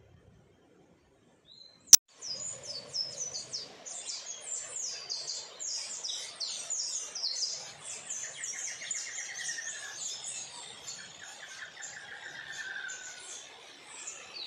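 Near silence for about two seconds, then a single sharp click. After it a chorus of birds chirps and sings in dense high calls, with two drawn-out lower trills, one around the middle and one toward the end.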